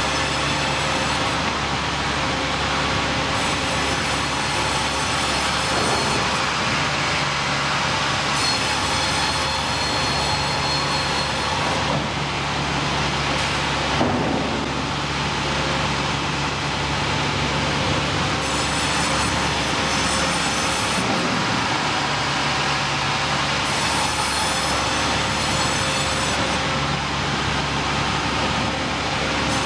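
Sawmill machinery running steadily: a loud, continuous mechanical rumble and hiss with faint steady whining tones, and a single brief thump about halfway through.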